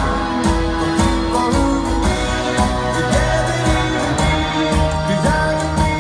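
Live rock band playing in concert, heard from the audience in an arena, with a steady drum beat under held guitar and keyboard notes.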